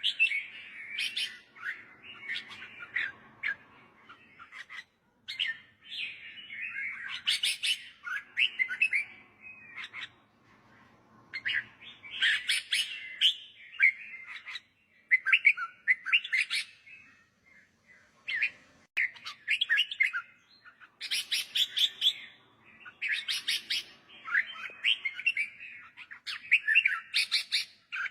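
Red-whiskered bulbul singing: short, quick chirping phrases repeated every few seconds, with brief pauses between them.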